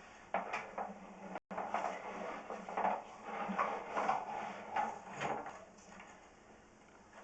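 Irregular knocking, clattering and scraping from the drain inspection camera's push cable being worked against the stuck point under the toilet. It is busiest for the first six seconds and then dies down.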